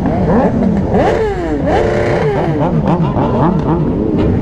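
Several motorcycle engines revving and accelerating together, their pitches rising and falling over one another. About two seconds in, a short steady tone joins them.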